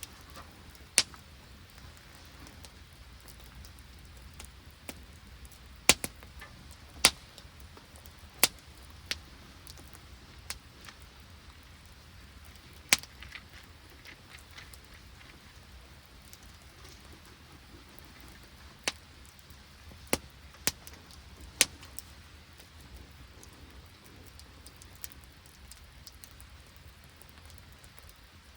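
Rain and sleet falling with a faint steady hiss, broken by about a dozen sharp, irregular ticks, a few of them quite loud.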